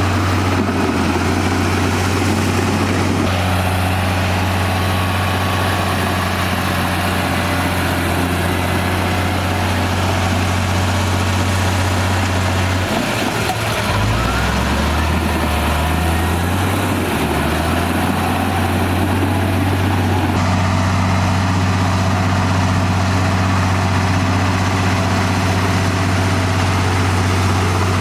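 Komatsu D58E crawler bulldozer's diesel engine running steadily with a deep hum. About halfway through, the engine note drops and wavers for a few seconds, then settles back to its steady pitch.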